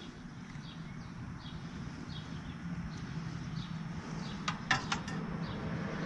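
Quiet outdoor ambience with a bird chirping at a regular pace, short high falling notes, plus a few sharp clicks about four and a half to five seconds in.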